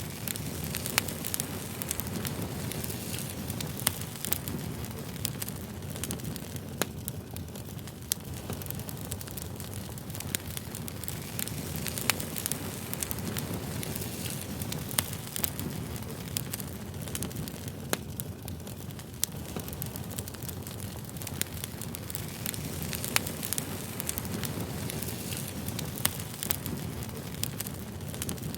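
Campfire crackling: a steady low rush of burning with irregular sharp pops and snaps of wood.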